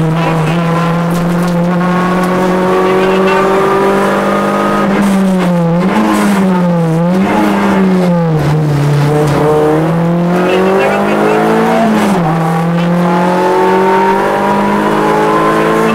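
Rally car engine heard from inside the cockpit, running hard on a special stage. The revs hold steady at first, then drop and rise several times through the middle as the driver brakes and shifts through a slow section, then climb steadily again under acceleration near the end.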